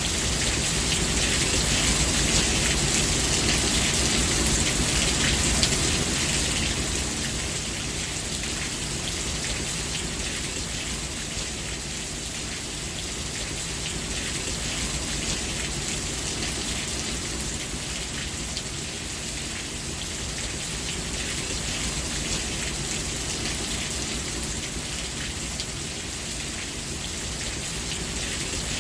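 Steady rain falling: a dense, even hiss full of tiny drop ticks. It is a little louder for the first six seconds, then eases slightly.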